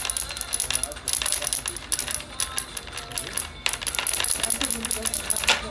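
Quick, irregular metallic clattering and tapping of a craftsman's tools as he works a name lettering, with a thin high ringing over the taps.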